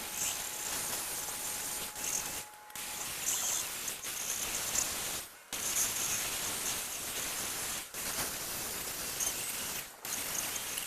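Steady hissing spray, cut by brief pauses about every two and a half seconds.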